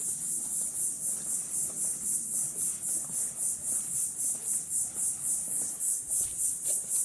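Insect chorus singing high-pitched in a steady, even pulse of about four beats a second.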